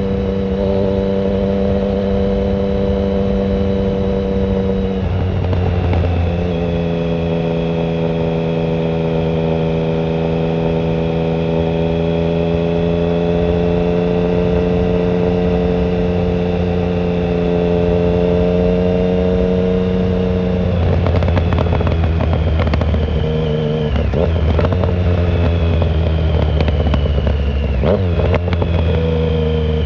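Triumph Speed Triple 1050's inline three-cylinder engine through an open shorty Competition Werkes exhaust without silencer, running under way. The pitch shifts about five seconds in and holds steady for about fifteen seconds, then rises and falls several times near the end as the throttle is opened and closed.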